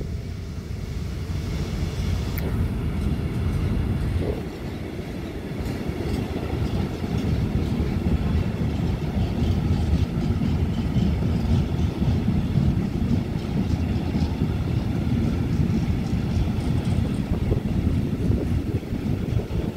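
Freight train of loaded gravel hopper wagons rolling past over the crossing, a steady rumble of wheels on the rails.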